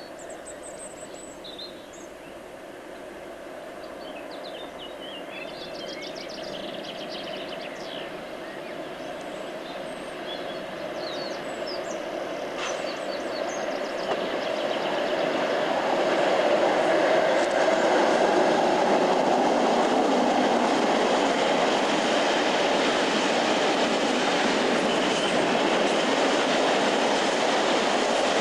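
A freight train coming along the main line, growing louder until about halfway and then the steady noise of its wagons running over the rails. Birds chirp in the first half.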